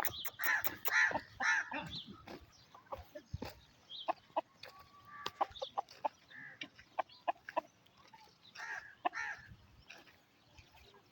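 Aseel gamecocks clucking and calling, in bursts near the start and again about nine seconds in, with many short sharp clicks and knocks scattered throughout.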